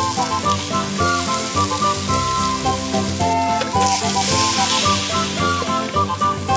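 Food frying and sizzling in a pan, the sizzle swelling loudest about four seconds in, over background music with a melody.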